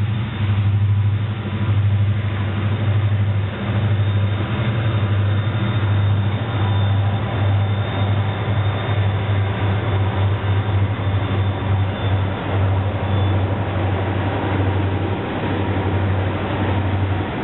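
Québec Gatineau Railway mixed freight train passing, led by diesel locomotive 6908: a steady, loud, low diesel drone as the locomotives go by, then the freight cars rolling past on the rails.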